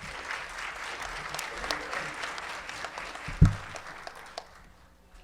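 Audience applauding, the clapping dying away after about four and a half seconds. One loud, low thump sounds about three and a half seconds in.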